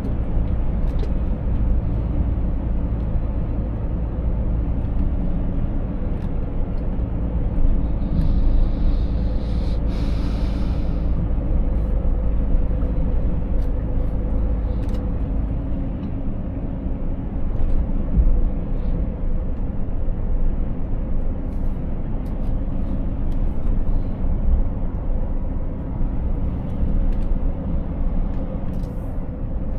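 Scania 500S truck's inline six-cylinder diesel engine running steadily under way, with a low drone and road rumble, and a brief hiss about eight to ten seconds in.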